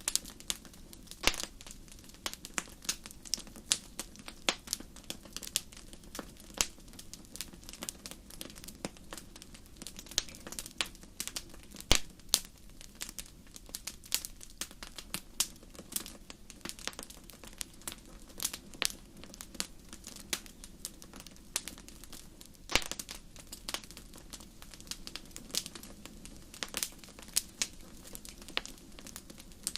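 Wood fire burning in a fireplace, crackling: irregular sharp pops and snaps, several a second, with a few louder pops, over a steady low rumble of the flames.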